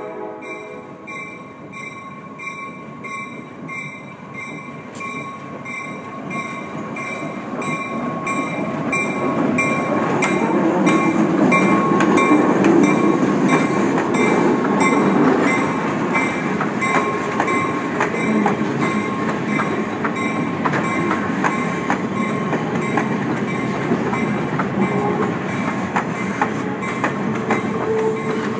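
A diesel switcher locomotive pulling a passenger train rolls past at low speed, growing louder over the first ten seconds or so as it draws level, then the passenger coaches roll by with a run of regular clicks from the wheels.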